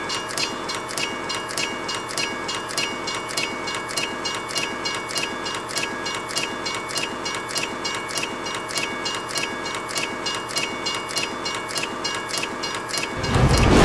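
Train running on rails, its wheels clacking over the rail joints about four times a second over a steady high whine. Near the end a much louder low rumble swells in.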